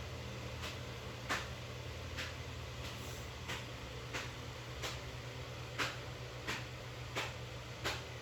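A series of light, sharp taps, about three every two seconds, over a steady low hum.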